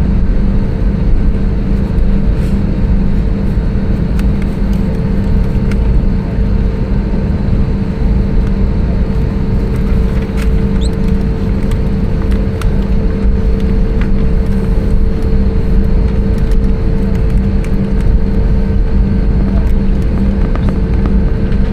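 Airbus A320neo cabin noise: a steady, loud rumble of the engines and airflow, with a constant mid-pitched hum running through it.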